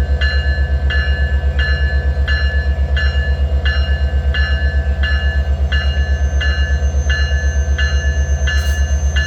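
Railway bell ringing steadily, about three strokes every two seconds, over the low, fast-pulsing rumble of the train's diesel locomotive.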